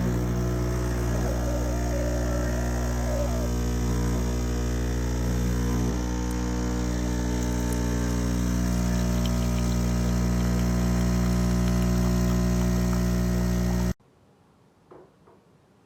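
Steady low electrical hum with a buzz, cutting off abruptly near the end; then near silence with one faint tap.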